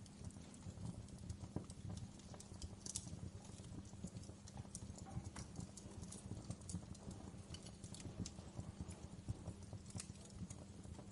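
Wood fire crackling in a fireplace: a dense, irregular run of small pops and snaps over a low steady rumble.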